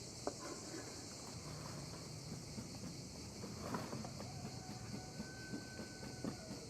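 Steady high-pitched insect chorus, typical of crickets, with scattered small clicks and knocks; faint held whistle-like tones come in near the end.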